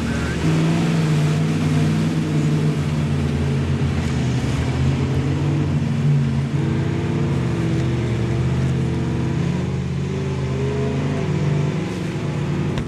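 Off-road 4x4 truck engine running under load, its pitch rising and falling with the throttle.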